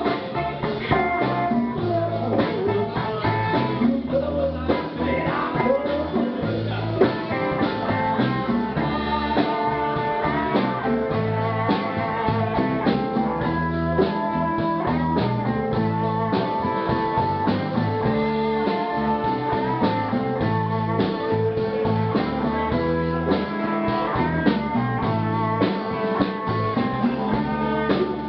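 Live band playing a blues number with guitar, in a continuous steady groove.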